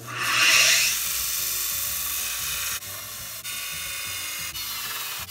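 Craftsman 1-inch belt sander grinding the edge of an aluminum plate: a steady, high-pitched rasp that starts suddenly and is loudest in the first second, with a few brief drops later on.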